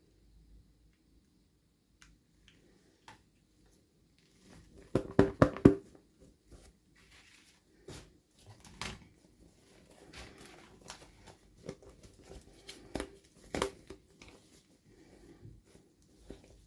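Hands handling plastic doll parts and packaging: a quick cluster of sharp clicks about five seconds in, then scattered clicks, taps and light crinkling.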